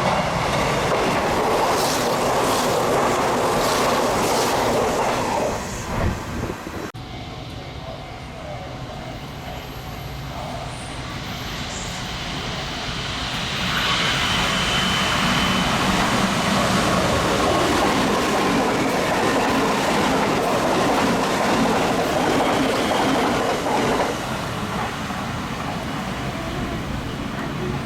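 Hanshin Railway electric trains passing through a station at speed, wheels clattering over the rails. One pass is fading away in the first few seconds; a second train builds up from about twelve seconds in and runs past loudly for about ten seconds before easing off.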